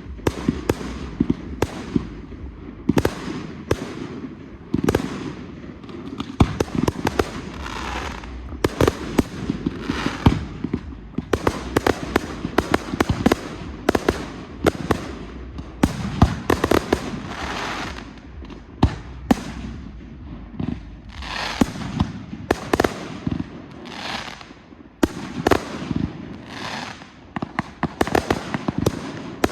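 Professional fireworks display: a dense, continuous barrage of shell bursts and sharp bangs, several a second, with crackling and hissing between them over a low rumble.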